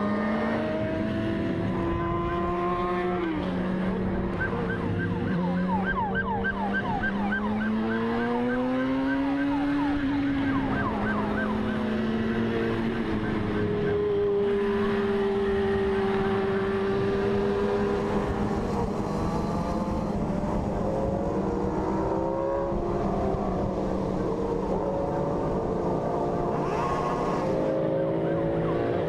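Motorcycle engine running with its pitch rising and falling as it revs and shifts. A police siren wails and switches to a fast warble partway through.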